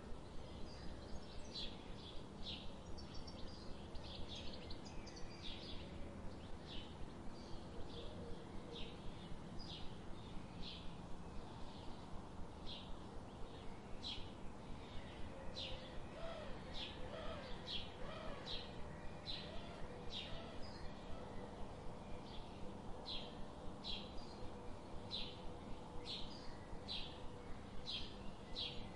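A bird's short, high chirps repeated steadily, a bit more than one a second, over faint forest ambience with a low steady hum underneath.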